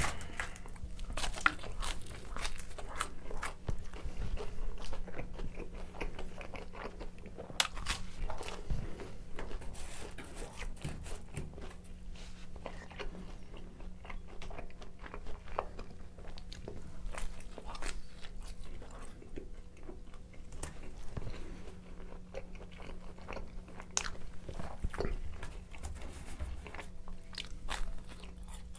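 Close-miked biting and chewing of pizza, the crust crunching in many short, sharp clicks, over a faint steady hum.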